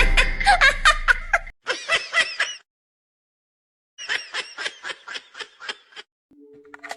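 Rapid, high-pitched giggling in quick short bursts. There are two runs of it, with a silent gap of about a second and a half between them.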